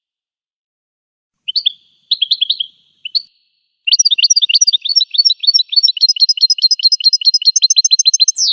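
Goldfinch singing in short twittering phrases, then a long rapid trill of evenly repeated high notes lasting about four seconds that ends in a quick downward slur. Silent for the first second and a half.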